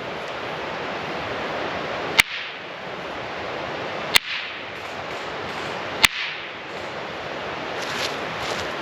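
Two hand-held rocks clacked together three times, evenly spaced about two seconds apart: single sharp cracks with a brief ring, over steady background noise.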